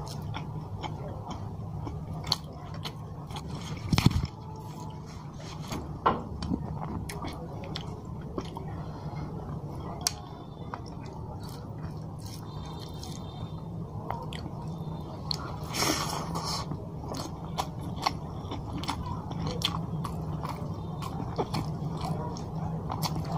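Close-miked mouth sounds of a man chewing mouthfuls of rice and fish curry eaten by hand, with many small wet clicks and smacks over a steady low hum. A sharper knock comes about four seconds in.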